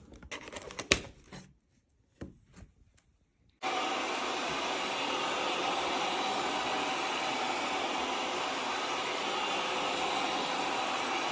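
A few light clicks, then, about three and a half seconds in, the suction motor of a Tapo RV20 Max Plus self-emptying dock starts abruptly and runs with a loud, steady rush, pulling the robot vacuum's dustbin contents into the dock's bag.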